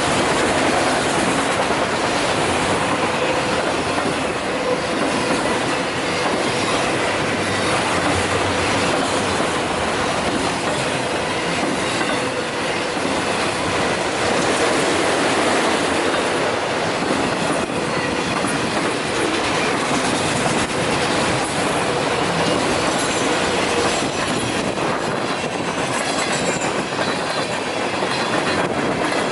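Canadian Pacific freight train's cars rolling past at close range, steel wheels on the rails making a loud, steady noise with faint wheel squeal mixed in.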